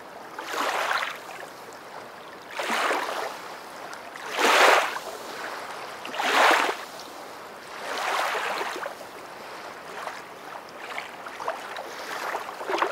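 Rushing water: washes that swell and fade about every two seconds over a steady hiss.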